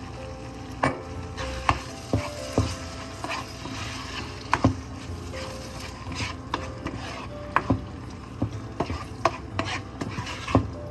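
A utensil stirring and knocking against cookware, with irregular sharp clinks.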